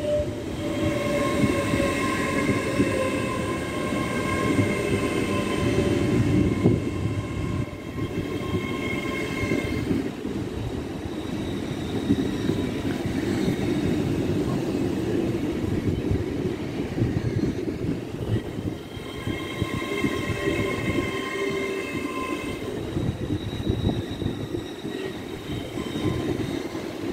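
A multi-car passenger train running past on the adjacent track, its wheels and bogies giving a continuous rumble. A steady high-pitched whine from its traction equipment comes in two stretches: for the first ten seconds or so, and again for a few seconds after the middle.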